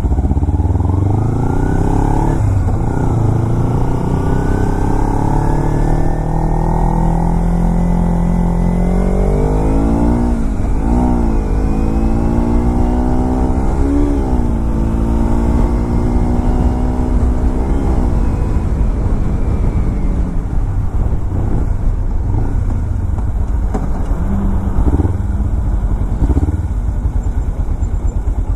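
Motorcycle engine under way, its pitch climbing steadily for several seconds, then falling and rising again three or four times as it changes speed, before settling to a steadier, lower note.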